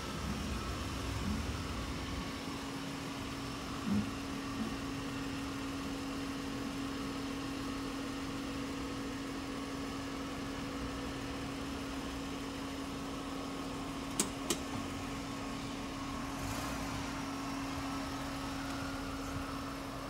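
Car engine running at low speed as the car creeps through shallow floodwater, a steady hum over a background wash. Two short sharp clicks come a little past two-thirds of the way through.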